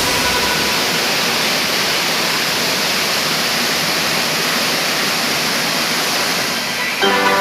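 Waterfall: a steady, even rush of falling water. Music comes in near the end.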